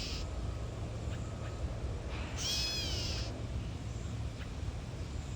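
Gray catbird giving its cat-like mew call, a nest-defence alarm: one slurred call that rises and falls, about two and a half seconds in, after the end of another right at the start.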